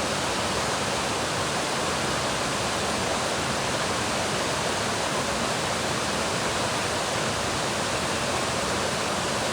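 Thomson's Falls waterfall, a steady, even rush of falling water.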